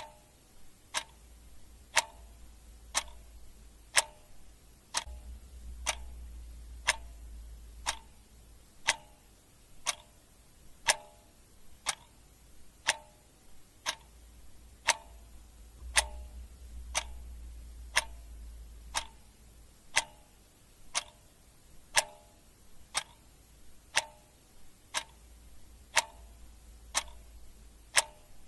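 Clock ticking steadily, one tick a second, the ticks alternating louder and softer in a tick-tock pattern. A faint low rumble comes and goes underneath.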